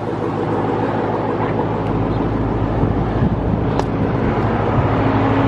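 A vehicle engine running steadily: a low, even hum that grows a little stronger near the end.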